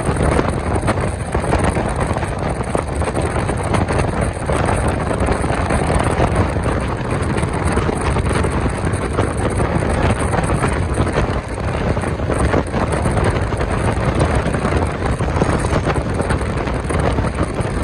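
Passenger train running along the track, heard from on board: a steady rolling rumble of wheels on rails with wind on the microphone.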